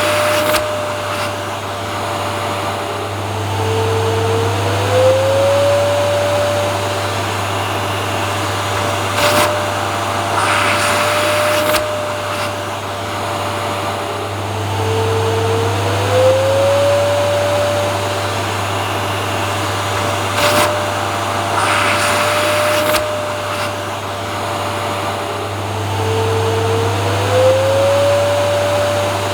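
Vacuum cleaner running continuously, a steady motor hum with a whine whose pitch dips and glides back up three times, about every 11 seconds, with brief surges of hiss in between.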